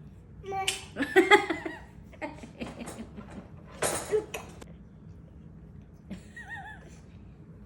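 A toddler giggling and laughing in short high-pitched bursts, with a brief wavering vocal sound near the end.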